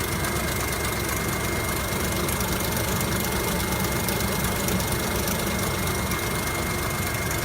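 A 2003 BMW X5 4.6's M62TU V8 idling roughly, with a steady fast clatter and a thin high whine over it. The clatter comes from the timing chain slapping around: the owner says the chain guides are completely gone.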